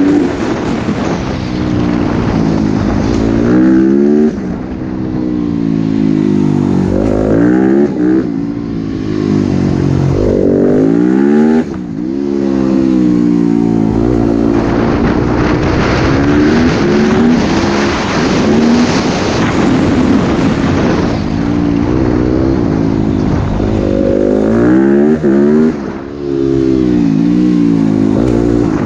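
Motocross dirt bike engine revving hard. Its pitch climbs in repeated sweeps and drops back as the throttle is opened and closed, with a few short dips where it backs off.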